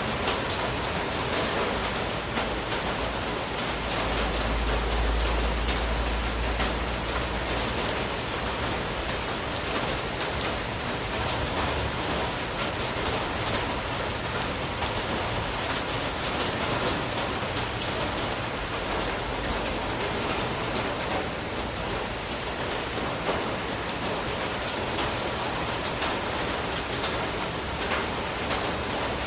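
Heavy monsoon rain falling steadily, an even hiss with many separate drop ticks through it. A low rumble lies under the rain from about three to eight seconds in.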